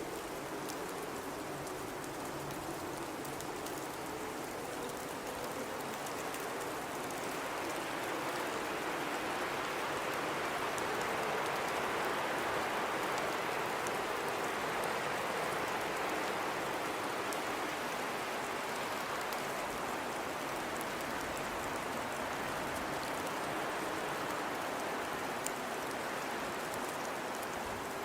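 Blizzard wind rushing steadily, swelling to a peak about halfway through and then easing, with a faint wavering howl in the first few seconds.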